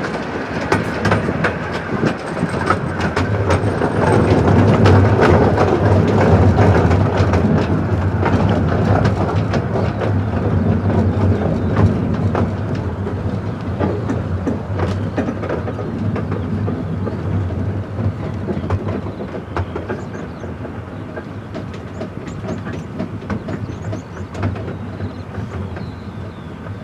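Fairbourne Railway miniature-gauge passenger carriage running along the track: a steady rumble with wheels clicking over the rail joints. It grows louder a few seconds in, then gradually fades, as if the train is easing off.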